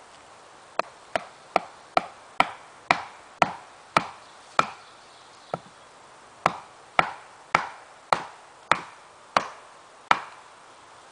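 A tool striking something repeatedly by hand: about seventeen sharp blows, roughly two a second, each with a short ring, with one lighter blow in a brief pause about halfway through.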